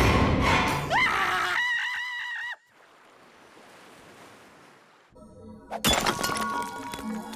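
Cartoon soundtrack effects and score: a loud crash-like burst, then a pitched tone that rises and wavers before cutting off. After a short quiet stretch a sharp hit lands and background music plays.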